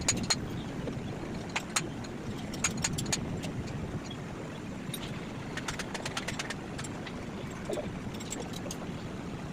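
Scattered sharp clicks and taps, bunched irregularly, over a steady low rumble.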